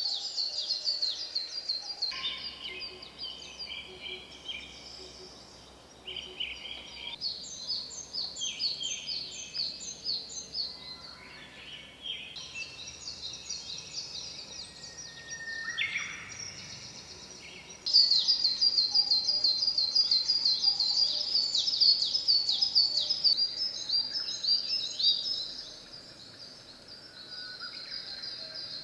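Outdoor chorus of high, quickly repeated chirping calls, with sudden changes every few seconds where the footage is cut; loudest a little past the middle.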